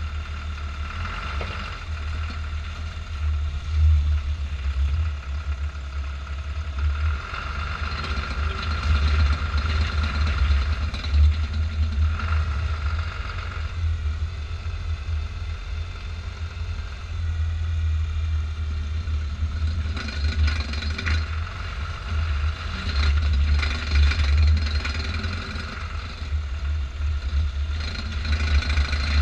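A vehicle making a ratcheting noise while turning: irregular bunches of clicks over the steady low hum of the running engine.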